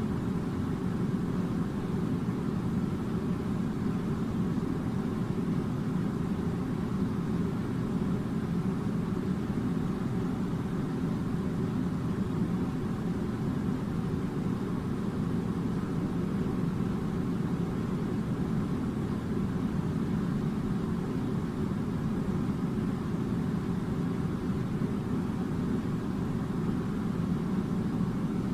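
Air conditioning unit running with a steady, low hum that does not change.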